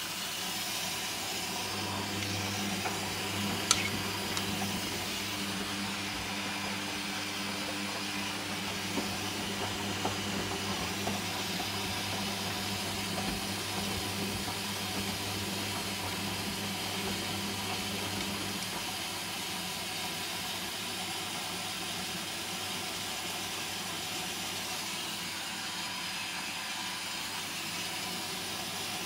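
Hoover Dynamic washing machine on its second rinse, most likely drawing in water: a steady hiss, with a low hum under it that stops about two-thirds of the way through. One sharp click about four seconds in.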